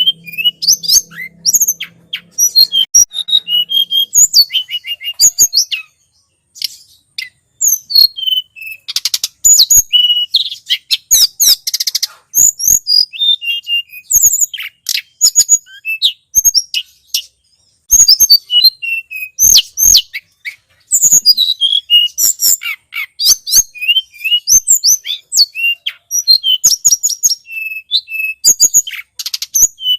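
Tledekan gunung bird calling, a bird-trapping lure recording: rapid runs of high, thin chirps and quick sweeping notes, broken by short pauses about six and eighteen seconds in.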